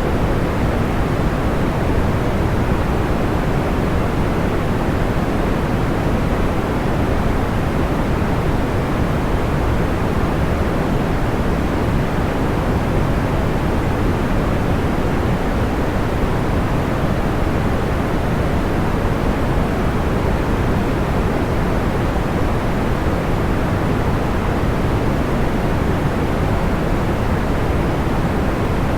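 Steady synthetic sleep noise, a deep even hiss that is heavier in the low end and softer in the highs, with no crackles or changes.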